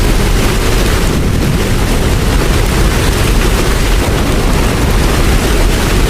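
Steady heavy rain with a deep, constant low rumble underneath; no clock chime or other distinct sound stands out.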